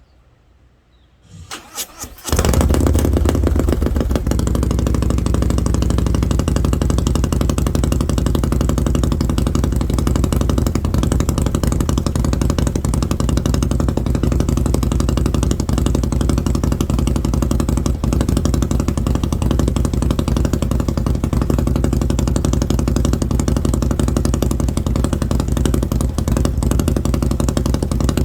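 Harley-Davidson Milwaukee-Eight V-twin with an SS 475 camshaft, on stock mufflers, cold-started. The starter cranks briefly about a second and a half in, the engine catches and then settles into a loud, steady fast idle.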